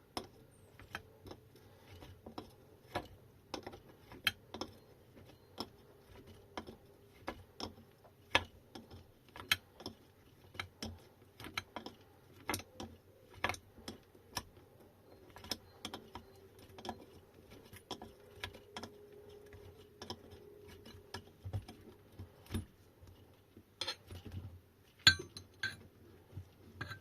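Irregular small metallic clicks and clinks of hand tools and metal parts being handled, about one or two a second. A louder cluster of knocks comes near the end.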